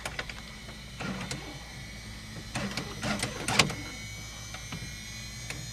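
Electrical hum and a faint high whine from a Cessna Skyhawk's cockpit with the master switch just turned on and the engine not yet running, the whine rising slightly in pitch. Several clicks and rustles of switches and handling, loudest about three and a half seconds in.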